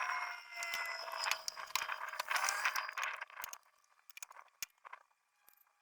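Metal parts and hand tools rattling and scraping during an alternator removal, with many sharp clicks; the rattling stops about three and a half seconds in, leaving a few scattered clicks.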